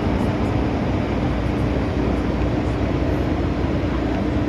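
MTR M-Train running at speed between stations: a steady rumble of wheels on track with a constant hum.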